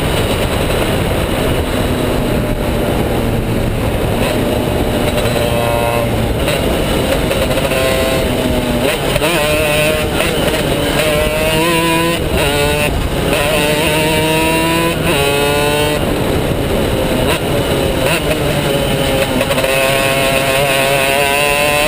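Two-stroke racing kart engine at speed, its pitch climbing again and again as it accelerates and dropping back between climbs.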